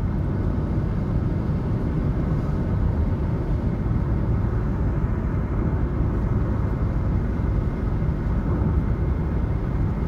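Steady low rumble of a running vehicle, with no change in pace.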